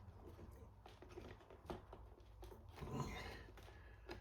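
Faint clicks and light handling noise of small parts as a car fuel pump assembly is taken apart by hand, over a low steady hum.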